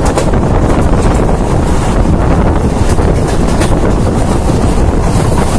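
Wind buffeting the microphone at the open doorway of a moving passenger train, over the steady rumble of the train running along the track.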